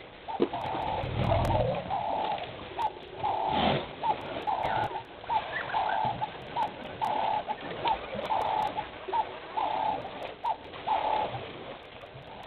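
A bird, dove-like, repeating a low two-part call about every three-quarters of a second, a dozen or so times, stopping about a second before the end.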